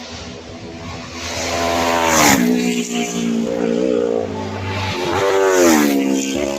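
Two racing superbikes passing at high speed, one after the other. The engine pitch drops sharply as each goes by, about two seconds in and again near the end, and an engine tone carries on between them.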